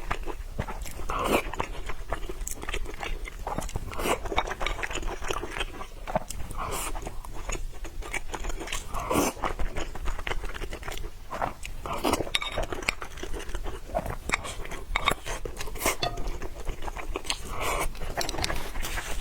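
A person chewing and biting food close to the microphone, with crunching and many small wet mouth clicks throughout.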